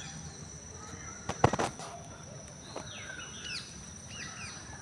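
Birds chirping in short rising and falling calls over a steady thin high-pitched tone, with one sharp knock about one and a half seconds in.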